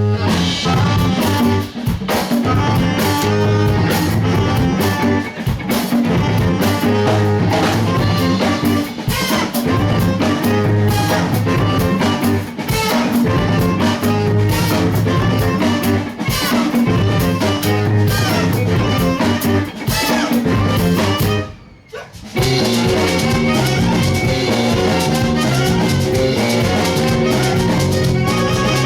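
Live band playing, with drum kit and guitar over a steady bass line. About three quarters of the way through the band cuts out for a moment, then comes straight back in.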